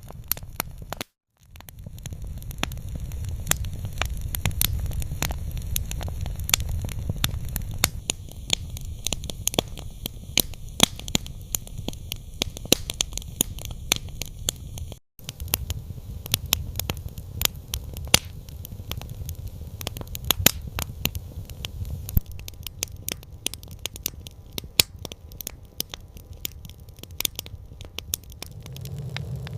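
Campfire crackling: scattered sharp pops and snaps over a low steady rumble of burning. The sound cuts out to silence for a moment twice, about a second in and about halfway through.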